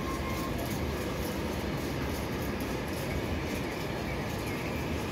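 Freight train of car-carrier wagons loaded with vans rolling past, a steady, unbroken rumble of wheels on the rails.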